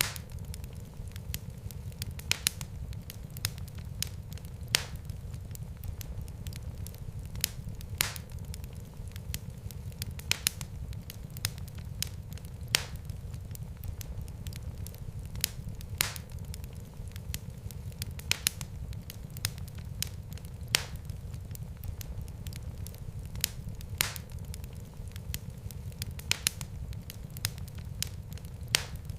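Fire in a fireplace crackling: irregular sharp pops and snaps, a few each second, over a steady low rumble of the flames.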